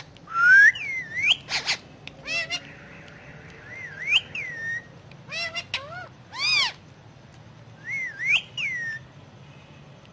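Indian ringneck parakeet whistling, a gliding up-and-down whistled phrase repeated several times with short chirps in between.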